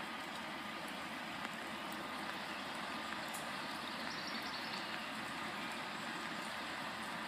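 Pacer diesel multiple unit running a short way down the line, heard as a steady, even hiss without a clear engine note.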